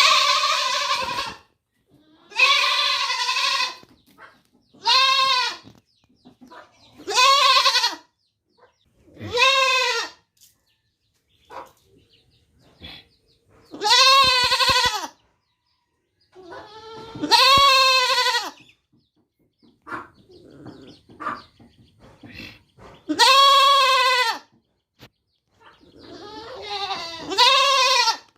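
Young goat (kid) bleating again and again: about nine high, wavering baas, each about a second long, with pauses of a few seconds between them.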